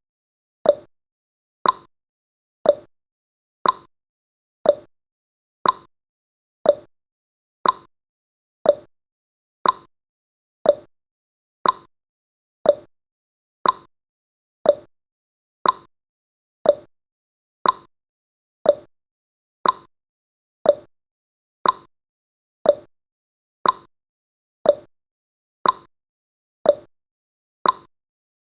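Countdown timer's tick sound effect: one short, clock-like tick every second, evenly spaced.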